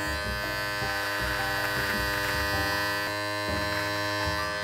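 Electric beard trimmer running with a steady buzzing hum as it is drawn back under the chin through a short beard.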